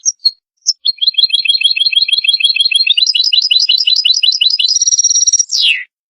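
European goldfinch singing: a few short call notes, then a fast twittering trill that steps up in pitch about three seconds in. A buzzy, higher stretch follows, and the phrase ends with a single falling note.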